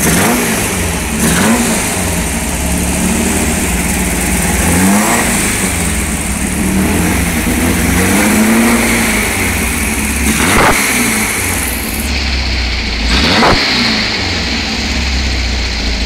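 A newly installed engine running and being revved over and over, its pitch rising and falling with each blip of the throttle. Two short sharp sounds cut through in the second half.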